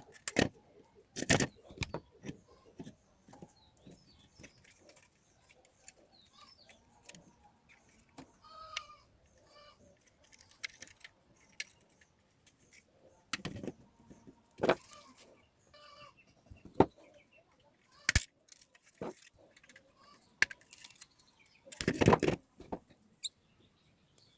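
Irregular clicks, taps and rustling of hands handling wires and plastic switchboard fittings while wiring a ceiling-fan regulator board, with a few louder knocks now and then.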